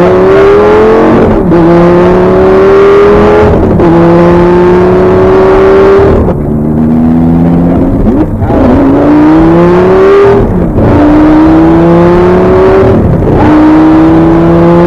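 Supercar engine under hard acceleration: the note climbs steadily, breaks off briefly, drops and climbs again, six times over, like gear changes on the paddles.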